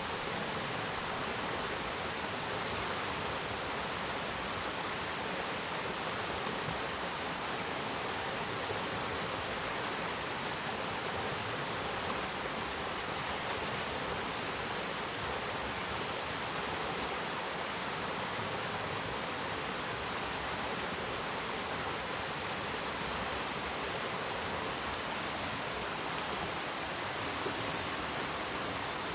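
Stream flowing: a steady rush of running water that holds even throughout.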